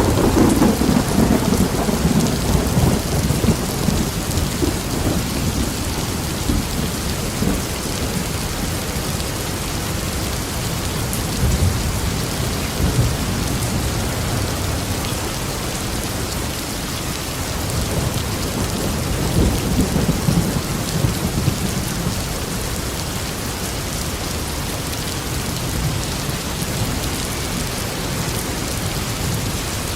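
Steady heavy rain with rolling thunder. A loud thunder roll opens and fades over a few seconds, and lower rumbles swell again about a third and two-thirds of the way through.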